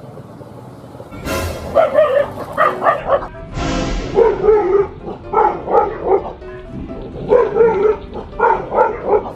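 A dog barking repeatedly in quick runs of two or three, as a dog does when alarmed by a threat, over background music. Two short rushing noises are heard about a second in and near the middle.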